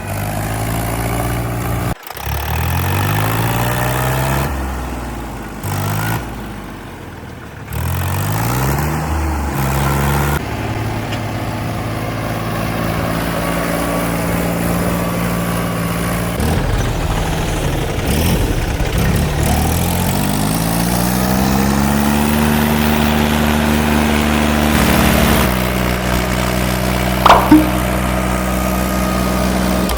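Heavy diesel vehicle engines running under load, revving up again and again and then holding steady, in several abruptly changing stretches. A sharp metallic clank stands out near the end.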